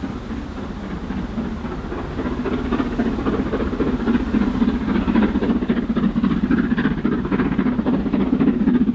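LMS Black 5 4-6-0 steam locomotive hauling a passenger train, its rapid exhaust beats and rolling-stock noise growing louder as it approaches, with wind on the microphone.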